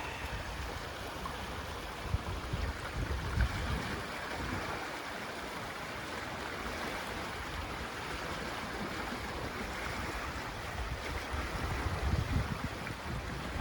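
Swollen, rain-fed river rushing steadily. Wind buffets the microphone in low rumbles a couple of times, around two to four seconds in and again near the end.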